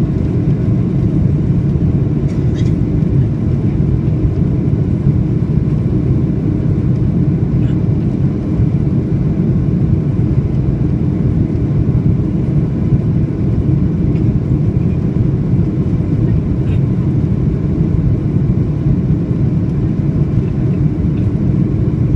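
Steady low rumble inside the cabin of a Boeing 737-800 in flight, from its CFM56 turbofan engines and the airflow over the fuselage, during the descent toward landing.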